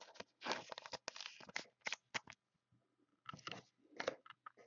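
Trading cards and plastic card sleeves being handled: a run of short, crisp rustles and clicks, with a brief pause a little past halfway.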